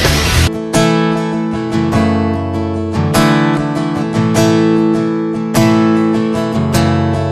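Instrumental music led by an acoustic guitar strumming chords in a steady rhythm, with no singing. A bright wash of high sound stops about half a second in, before the strumming takes over.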